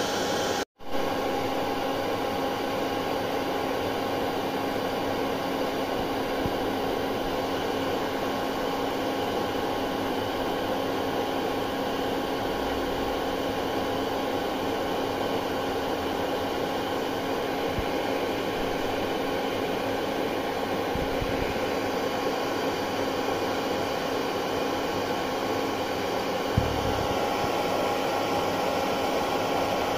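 Electric hair dryer running steadily, a constant rush of air with a steady motor whine. The sound cuts out for an instant just under a second in, then carries on unchanged.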